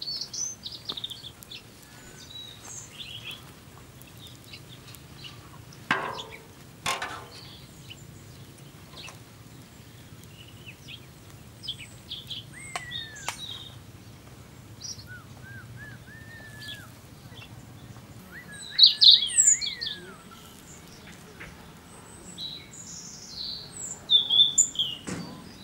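Birds chirping and singing outdoors in short high calls, some gliding or warbling, loudest in bursts toward the end. There are two short knocks about six and seven seconds in, and scattered faint clicks.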